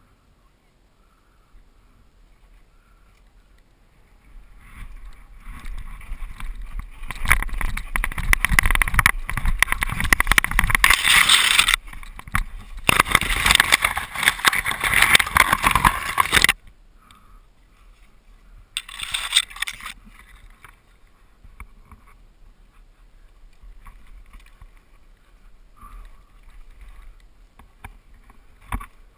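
Mountain bike rolling fast down a rough dirt trail: tyres rattling and crunching over dirt and rocks, with wind noise on the microphone. The noise builds from about four seconds in, stays loud for about ten seconds, cuts off suddenly past the halfway point, and comes back in one short burst a few seconds later.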